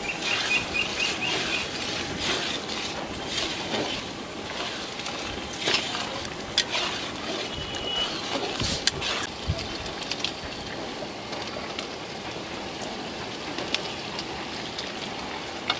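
Curry masala sizzling as it fries in a steel wok, with a metal spatula scraping and knocking against the pan several times as it is stirred.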